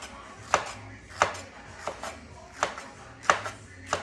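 Knife dicing a habanero pepper on a cutting board: a sharp chop about every two-thirds of a second.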